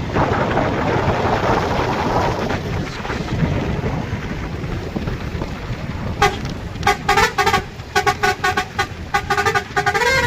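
Steady rushing road and wind noise, then about six seconds in a vehicle horn starts sounding in a rapid series of short, rhythmic honks.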